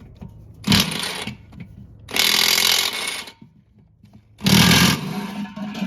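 Milwaukee half-inch-drive impact wrench hammering in three bursts, the middle one about a second long and the others shorter, as it breaks loose nuts on a truck wheel hub.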